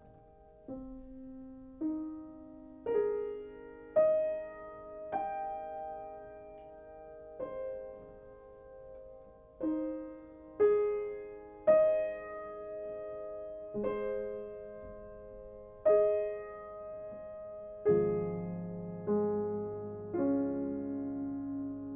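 Solo piano playing a slow, gentle melody, notes struck about once a second and left to ring, with low bass notes joining near the end.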